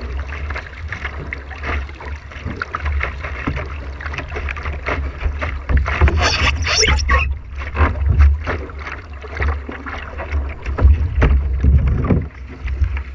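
Water splashing and rushing around a whitewater canoe, with wind buffeting the camera's microphone as a low rumble; a brighter, hissier splash comes about six seconds in.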